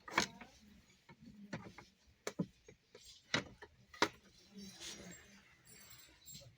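A handful of sharp knocks and clicks, about six in the first few seconds, with faint voices murmuring near the end.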